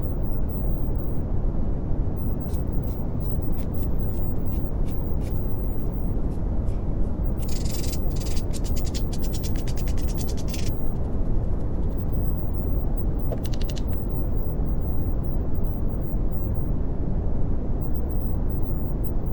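Steady brown noise: an even, deep rushing hiss weighted toward the low end, the masking bed for subliminal affirmations. Faint high clicks come through a few seconds in and again briefly later.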